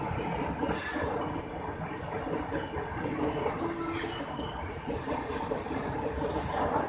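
Indian Railways passenger coaches rolling past slowly as the train pulls out of the station: a steady rumble of wheels on rail with a few short, high-pitched wheel squeals.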